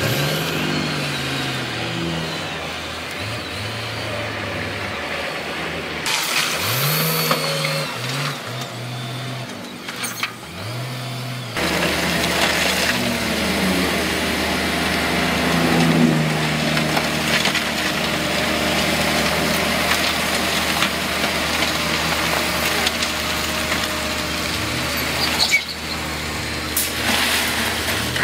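Diesel engines of heavy earthmoving machines running, their pitch rising and falling as they rev, with the sound changing abruptly a few times.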